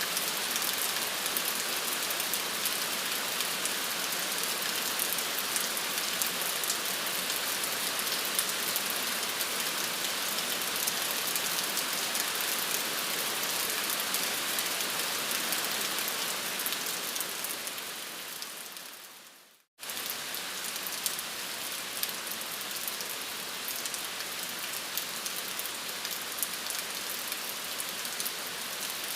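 Steady rain falling, a dense even hiss of pattering drops. About two thirds of the way through it fades out to a moment of silence, then cuts straight back in a little quieter.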